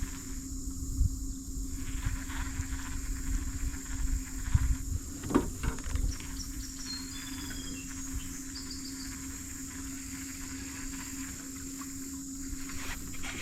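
Steady high buzzing of insects over a constant low hum, with a few dull knocks in the first half and faint short chirps near the middle.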